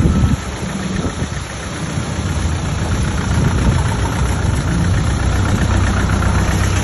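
Heavy diesel engine of earthmoving machinery running at low revs, dropping in level just after the start and building back up over the following few seconds.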